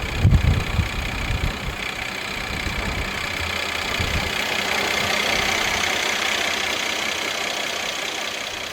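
3.5-litre M276 V6 engine of a Mercedes-Benz E300 idling steadily, with a few low thuds in the first second or two.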